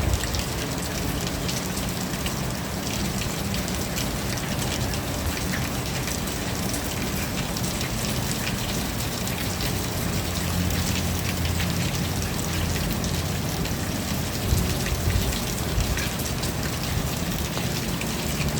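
Steady rain falling, with many close drops tapping on a surface over a low, rumbling wash.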